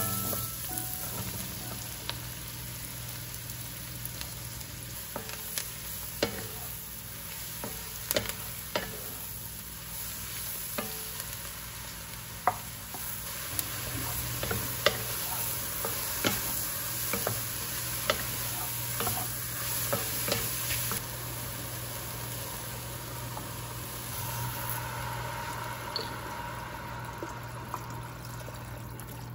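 Onions, then mushrooms, sizzling in a cast iron pot as a wooden spatula stirs them, with frequent sharp knocks and scrapes of the spatula against the pot. Near the end, chicken broth is poured in.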